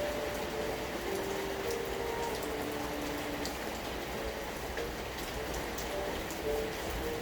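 Steady rain falling, with a faint, slow melody of held notes over it.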